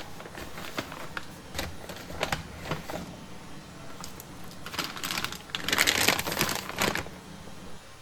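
A series of light clicks and knocks, then a louder rustling noise lasting about two seconds, starting about five seconds in.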